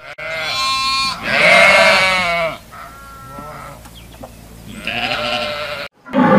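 A flock of sheep bleating, several wavering bleats overlapping, the loudest in the first half and fainter ones later.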